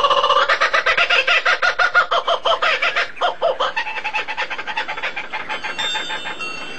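A bird calling in a fast run of repeated, pitched notes, growing fainter over the last few seconds.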